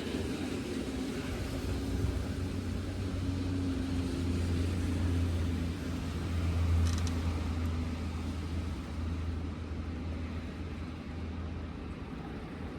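Blizzard wind gusts buffeting the microphone: a deep, rumbling roar that swells to its loudest about seven seconds in, then eases off.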